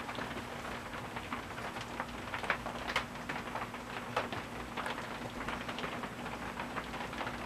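Rain tapping irregularly, over a faint steady hum from a 42-inch Quarom ceiling fan motor running in reverse, a motor with a running moan.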